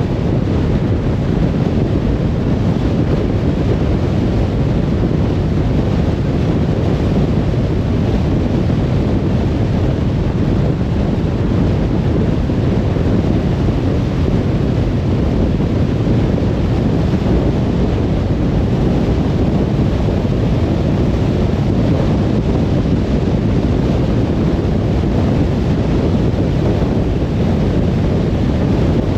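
Car driving at steady speed on a motorway: an even, low tyre-and-road rumble with wind noise that does not change.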